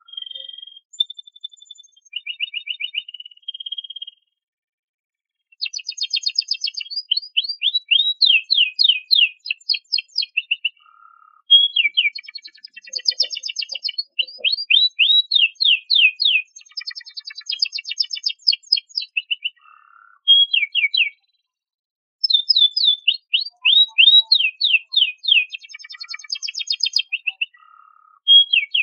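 Domestic canary singing: long, high-pitched phrases of fast repeated notes and rolling trills, broken by a couple of short pauses.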